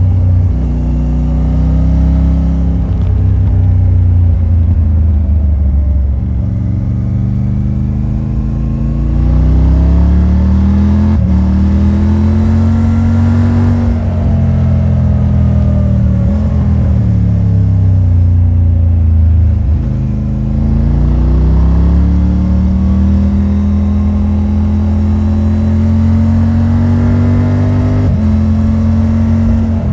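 Triumph Tiger 900 Rally Pro's three-cylinder engine through its stock exhaust, pulling through the gears. Its pitch climbs steadily under acceleration, drops sharply at upshifts about eleven seconds in and near the end, and falls away twice in the middle as the throttle is eased.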